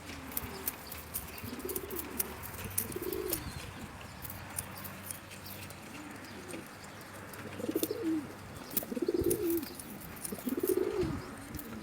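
Domestic pigeons cooing in a loft: a series of low, rolling coos that grow louder in the second half, with scattered faint clicks in the background.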